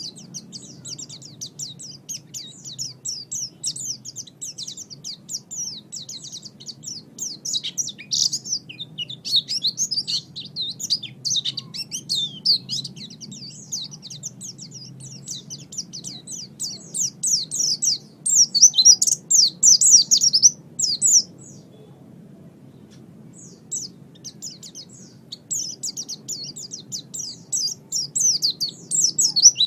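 Pleci (white-eye, Zosterops) singing a long, fast twittering song of high chirps that tumble one after another, breaking off for about two seconds a little past the middle and then starting again. A faint steady low hum lies under it.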